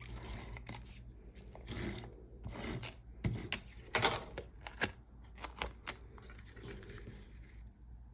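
Cardstock being handled and pressed together at a desk: scattered paper rustles, short scrapes and light taps as an embossed panel is stuck onto a folded card front.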